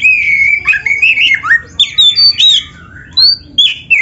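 Oriental magpie-robin (kacer) singing loudly: a rapid, varied run of whistled notes, quick upward and downward glides and some harsh notes, with a short pause about three seconds in. This is a full-song bird whose song is packed with mimicked phrases of other birds (full isian).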